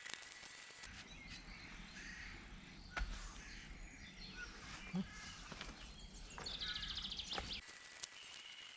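Birds calling outdoors, with a rapid high trill near the end. Two sharp knocks come about 3 and 5 seconds in.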